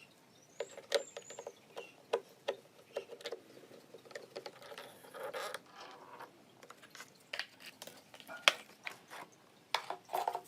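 A run of irregular clicks and light knocks from hands working on small parts, with a few louder knocks near the end.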